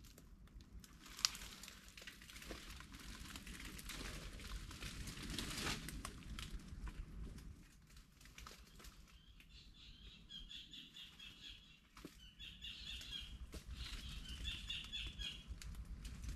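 Rustling of leaves and branches as someone moves through mangrove undergrowth, with a sharp snap about a second in. In the second half comes several seconds of high, rapid chirping in quick pulses.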